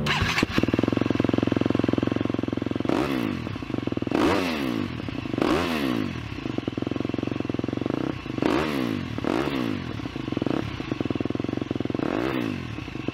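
Several motocross bikes racing on a dirt track, engines revving hard. The pitch rises and falls again and again as bikes pass close by and shift.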